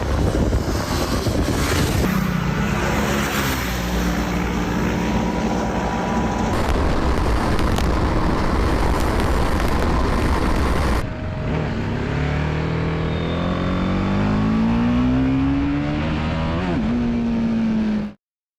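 BMW G 310 R's single-cylinder engine under hard throttle, revving and accelerating, its pitch climbing for several seconds in the latter half. There is an abrupt change in the sound about eleven seconds in, and it stops suddenly near the end.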